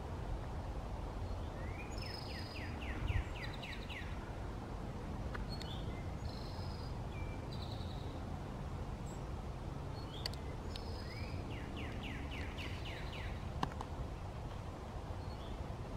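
A songbird singing: a phrase of about eight quick down-slurred notes, repeated about ten seconds later, with shorter chirps in between, over a steady low rumble.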